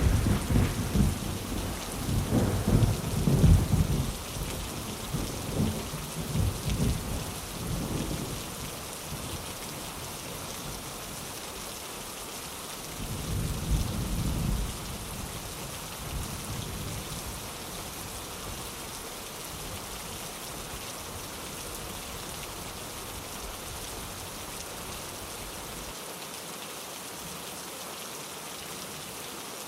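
Steady rain with rolling thunder: a loud low rumble at the start that fades over several seconds, and a second, shorter rumble about halfway through.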